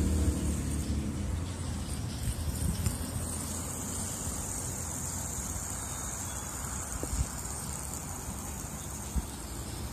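Fidget spinner whirring low and fading as it spins down, with two faint knocks late on.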